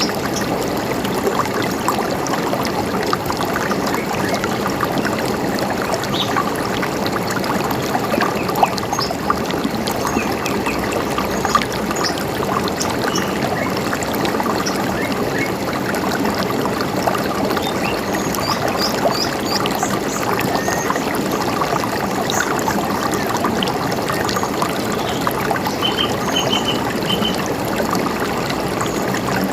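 A river running steadily, with small birds chirping now and then above it and a quick run of chirps near the end.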